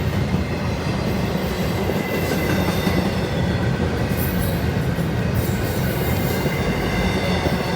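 Train rolling past close by: a steady rumble of railcars on the track, with faint high wheel squeal midway through.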